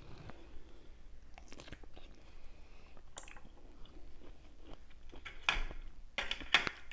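A person biting and chewing juicy mango pieces close to the microphone: irregular wet clicks and smacks, with a few louder ones in the second half.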